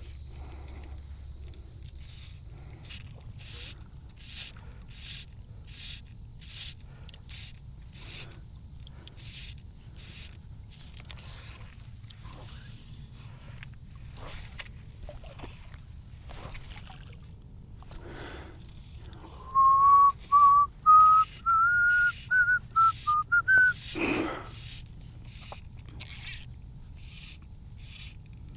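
A person whistling a short run of clear notes that step upward in pitch for about five seconds, two-thirds of the way through. Insects chirr steadily underneath, with a soft pulsing rhythm.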